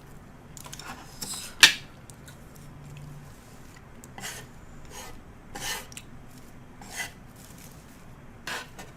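Utensils scraping and clicking against a tabletop grill plate as vegetables are moved onto it: about half a dozen short rasping scrapes, the sharpest a second and a half in.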